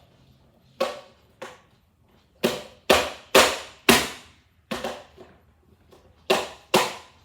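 About ten sharp knocks and clicks at an irregular pace, loudest in a quick cluster of four near the middle, like hard toy parts being handled and knocked together.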